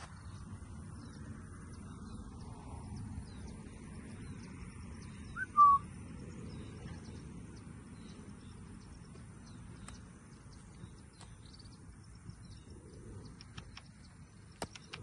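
A bird gives one short, loud chirp about five and a half seconds in, over a steady low outdoor rumble, with faint high chirps repeating in the background.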